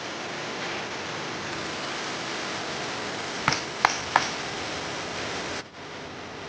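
Steady rushing noise of flowing water, with three sharp knocks in quick succession about halfway through; the rushing drops suddenly near the end.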